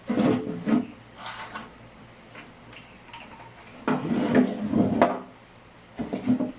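Rubbing and knocking of hard objects being handled, in four short spells, the longest a little after the middle.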